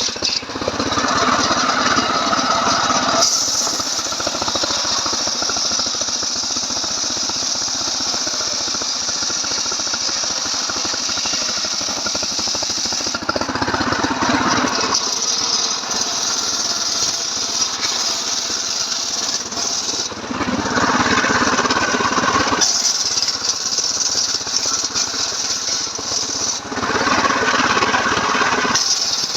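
Stihl MS 381 two-stroke chainsaw running continuously while ripping a log on a home-built chainsaw mill, its sound changing for a couple of seconds at a time every several seconds.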